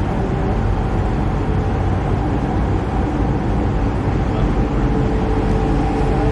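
Metro E Line light rail train running between stations, heard from inside the car: a steady rush and rumble of wheels on track, with a faint steady whine.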